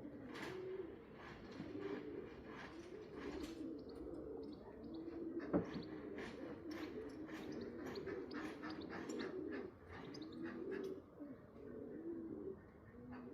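Several homing pigeons cooing over one another, with scattered clicks and wing flutters and a single sharper knock about halfway through.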